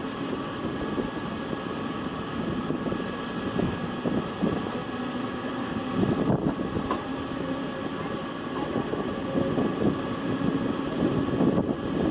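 A train running past on the track: a steady, continuous noise of wheels on rails, with a faint steady hum above it.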